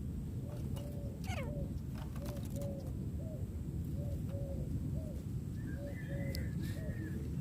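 Bird calls: a run of short, low, arched notes at about two a second, a quick falling call about a second in, and a few higher notes near the end, over steady low background noise.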